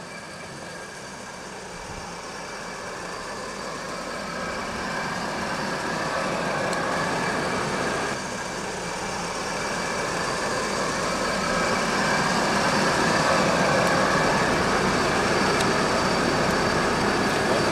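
A car's engine running steadily under a constant hiss, growing gradually louder, with a brief drop about eight seconds in.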